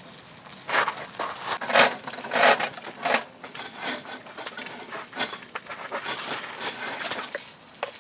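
Rustling and clattering of camping gear being handled, with a few short metallic clinks in the second half.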